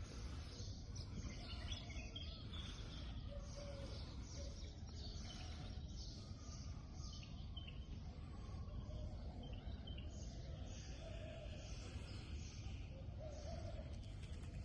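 Faint outdoor ambience: a steady low rumble of background noise with scattered faint bird chirps.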